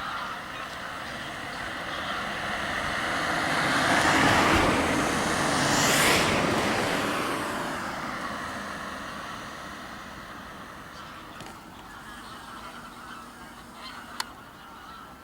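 Waterbirds honking, with a rush of noise that swells to a peak about halfway through and then fades away.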